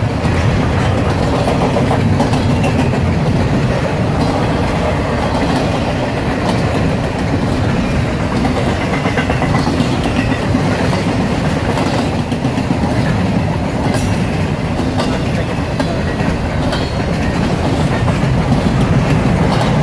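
A train's cars rolling past on the track: a loud, steady rumble of wheels on rail with a few faint wheel clicks.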